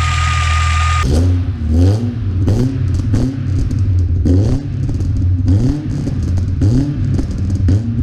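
VAZ Zhiguli (Lada classic) four-cylinder engine running through a new 4-2-1 exhaust system. It idles steadily for about a second, then after an abrupt change it is revved up and down in repeated short blips, roughly one every half second to second.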